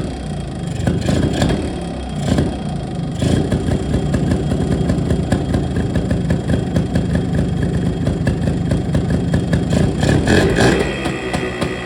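Motorcycle engine running on a home-made fixed-timing external ignition taken from a chainsaw. It runs steadily, with brief louder bursts near the start, about three seconds in, and near the end.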